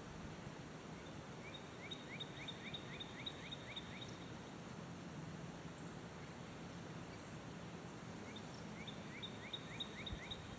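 A small bird singing two phrases of quick, repeated rising notes, about three a second, one starting about a second in and one near the end, over a steady low hum and outdoor background noise.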